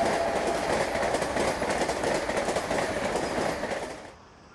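Vande Bharat Express electric train set passing at speed: a loud rush of wheels on rail with rapid clicking over the rail joints, with the last of its horn dying away at the start. The sound cuts off suddenly near the end, leaving only a faint hiss.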